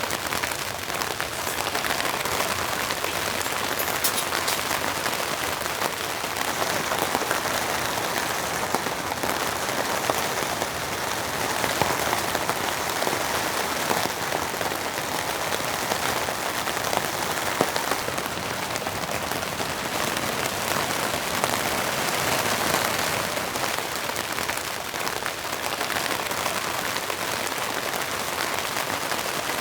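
Steady heavy rain falling on a tent, a dense, even patter of countless individual drops.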